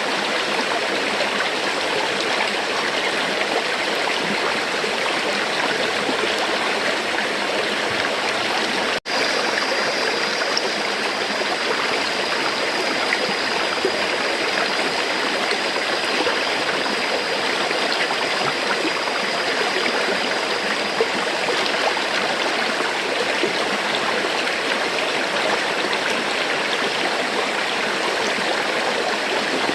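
River water flowing, a steady rushing that holds even throughout, with a momentary dropout about nine seconds in.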